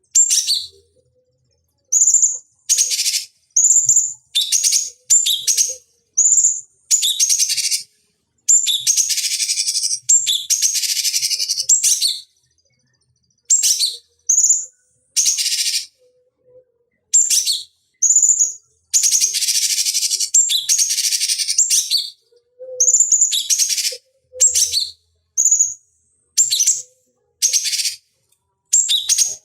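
Cucak cungkok (blue-winged leafbird) singing in bursts: short high chirps and whistled notes repeated with brief silent gaps, and twice a longer rapid, scratchy phrase lasting a few seconds. It is a recorded tutor song played to provoke and train other songbirds.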